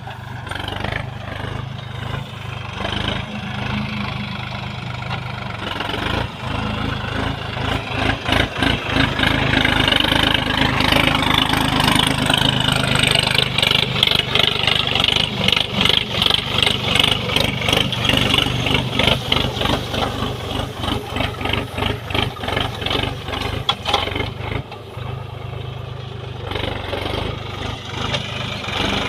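Sonalika DLX RX 50 tractor's diesel engine running under load. It gets louder about eight seconds in with a rapid pulsing beat, then eases back a few seconds before the end.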